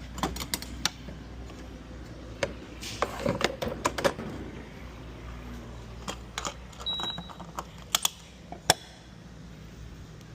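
Irregular light clicks and knocks, a few louder sharp ones about eight and nine seconds in, over a low steady hum.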